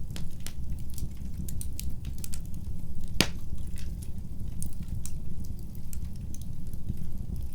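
Fire in a fireplace crackling, with irregular sharp pops over a steady low rumble. One louder pop comes about three seconds in.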